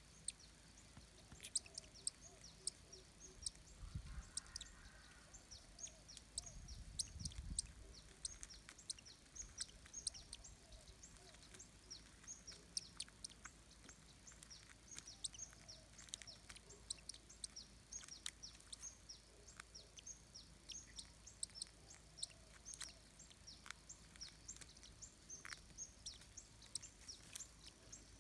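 Faint, rapid high-pitched bird chirps going on all the way through, with a couple of low thumps about four and seven seconds in.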